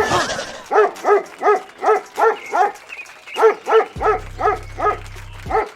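Small dog yapping rapidly, about three barks a second, in two runs with a short pause between them.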